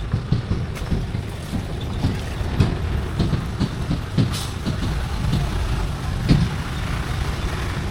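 Tractor engine running with a low rumble and irregular knocks and rattles.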